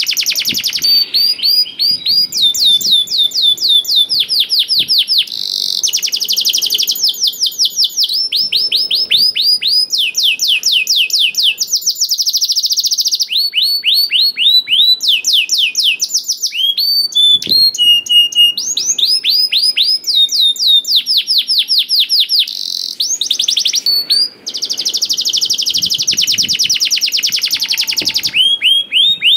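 A canary in full song, singing almost without pause in long runs of rapid trills. Each trill is a quick string of repeated down-sweeping notes, the runs changing speed and pitch from one phrase to the next.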